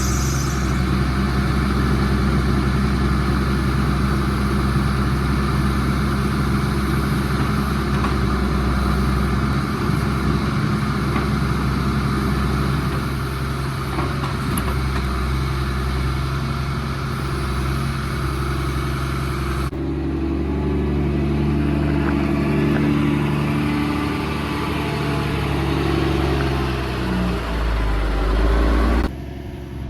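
10-litre inline-six diesel engine of a 1993 Freightliner FLD120 log truck running steadily at idle. The sound changes abruptly about two-thirds of the way through, after which the engine note wavers a little.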